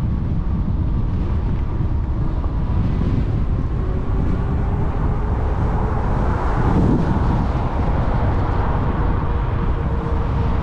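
Wind buffeting the microphone of a bike-mounted action camera while riding an e-bike at speed, a steady low rush. A faint steady whine runs under it from about halfway through.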